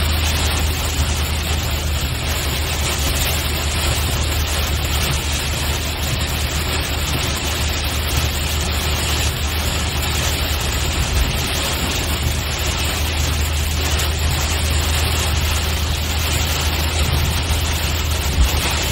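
Steady hiss of rain and tyres on a wet road over a constant low drone of the vehicle, heard from inside a moving car.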